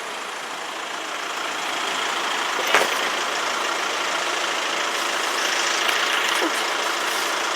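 A Class 172 diesel multiple unit running past over the level crossing: a steady rumble of engine and wheels that builds slowly, with a single sharp knock about three seconds in.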